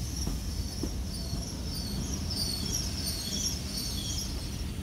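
GWR Class 800 Intercity Express Train rolling slowly past a station platform: a steady low rumble, with high chirping squeaks above it.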